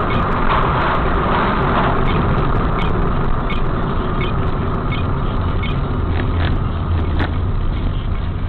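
Motor vehicle engines running in street traffic, a steady rumble with a faint regular tick about every three-quarters of a second.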